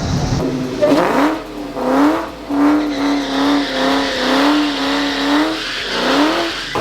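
A vehicle engine revved and held at high revs, its pitch sweeping up several times and wavering slightly while held.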